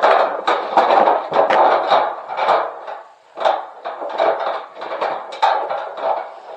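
Repeated knocking and clattering of hard objects being handled, with many short knocks and a brief lull about three seconds in.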